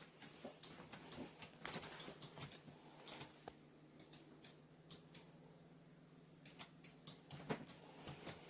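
Irregular light clicks and taps, a few a second, over a faint steady hum.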